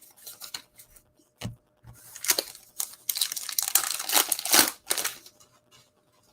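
A foil trading-card pack wrapper being torn open and crinkled, in a run of rustling tears that is loudest a couple of seconds in.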